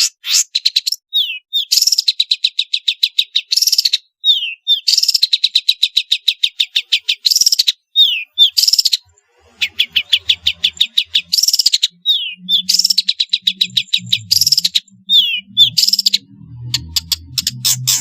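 Long-tailed shrike (pentet) singing: long fast trains of rapidly repeated chattering notes, broken by short downward-slurred notes. A faint low hum comes in during the second half.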